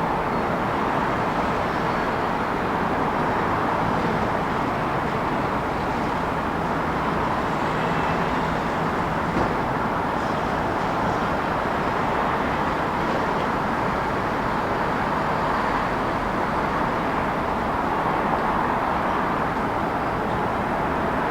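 Steady city traffic noise: an unbroken wash of road vehicles, with no single sound standing out.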